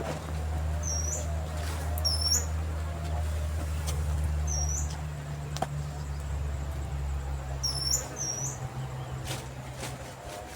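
Wild bird giving short, high chirps, one every second or two, over a low steady hum.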